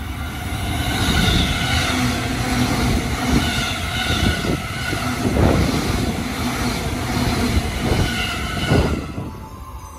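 JR East E233-5000 series electric train passing close by: a loud rumble of wheels on rail with a steady high whine and several clacks over rail joints, fading about nine seconds in.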